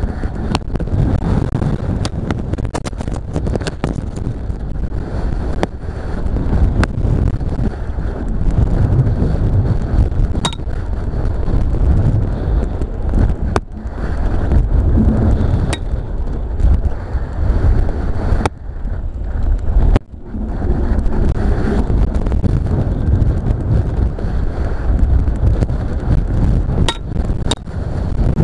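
Strong wind buffeting the microphone of a kite-borne camera in a 10 m/s wind: a heavy, gusting low rumble with scattered sharp clicks. It drops away briefly twice about two-thirds of the way through.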